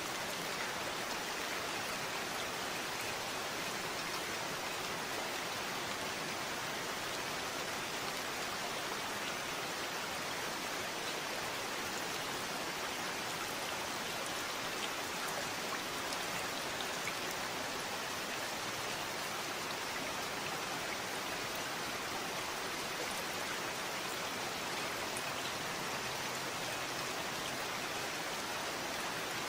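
Steady rain falling, an even hiss of many drops on surfaces that keeps up without a break.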